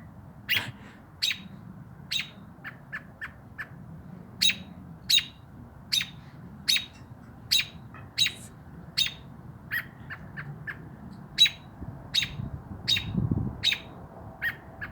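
A bird giving short, sharp chirps over and over, a little more than one a second, with a quick run of fainter chirps about three seconds in. The calls are persistent, and the people it is calling at take them for an aggressive protest at their presence in its yard.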